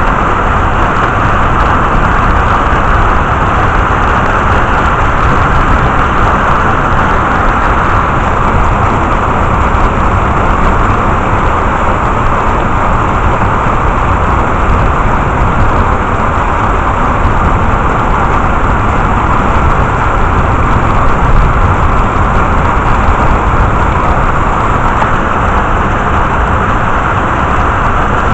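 Heavy rain falling during a thunderstorm, an even, loud rush of noise.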